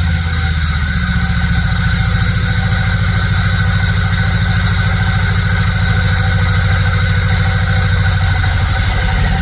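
2000 Chevy S-10 pickup engine idling steadily, with an even low pulsing rumble.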